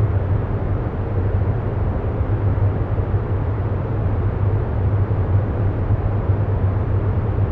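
Steady, deep background noise with a low hum at its base, even and unchanging, with no breaks or separate events.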